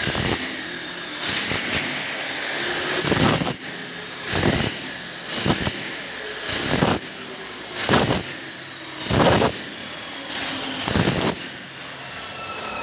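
A power tool working masonry in short, loud bursts, roughly one a second.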